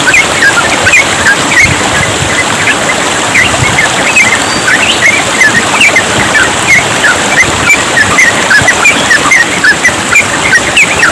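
Yellow-vented bulbuls (trucukan) singing in a rapid, unbroken stream of short chirping notes over steady trickling running water.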